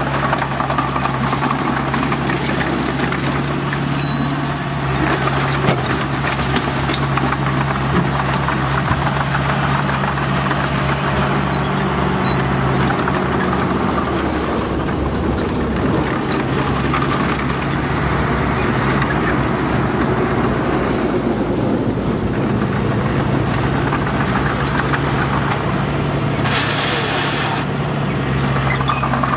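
Heavy diesel engine of a bulldozer running steadily, with a brief higher hiss near the end.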